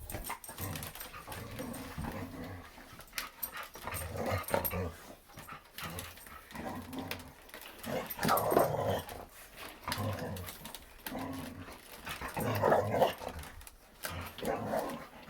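Shetland sheepdog growling at the vacuum cord as it is wound up, in repeated low rumbles. Louder, higher outbursts come about every four seconds.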